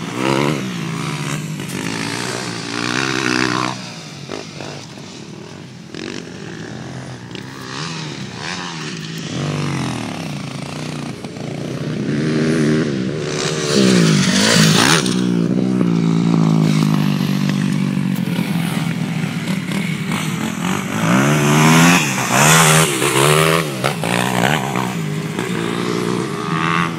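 Motocross dirt bikes riding a track, engines revving up and dropping back again and again as they accelerate and shift gears; loudest about halfway through and again later on.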